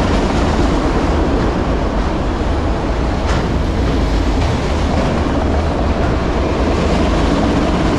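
Freight train of empty autorack cars rolling past close by: a steady noise of steel wheels on rail, with one sharp click about three seconds in.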